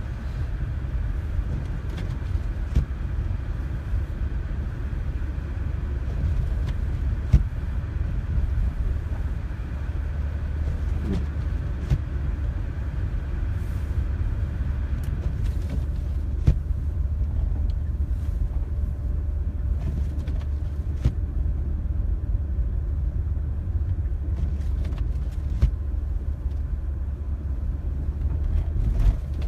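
Small passenger car driving on packed snow, heard from inside the cabin: a steady low rumble of engine and tyres, with a few scattered light knocks.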